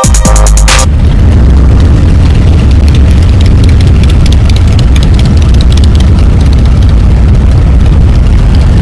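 Harley-Davidson motorcycle running under way, a loud steady low rumble that begins as music cuts off about a second in.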